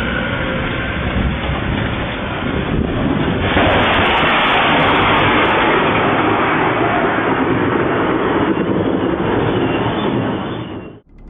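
Loud rushing roar with no clear tone, swelling about three and a half seconds in and cutting off abruptly near the end.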